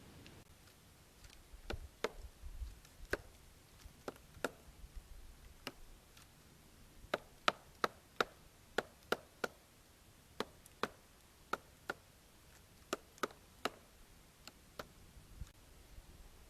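Woodpecker pecking at a tree trunk while foraging: single sharp knocks at uneven intervals, in loose runs with short pauses, at most about two a second.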